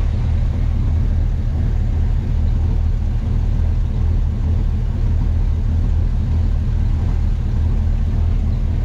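1951 Chevy truck's engine running steadily with a deep, even rumble, no revving.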